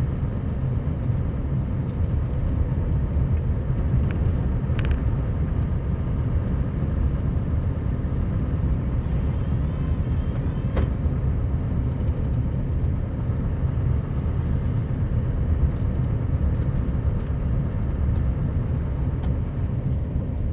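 Scania R560 snowplow truck's V8 diesel running steadily while plowing snow, a low, even rumble with a couple of faint clicks.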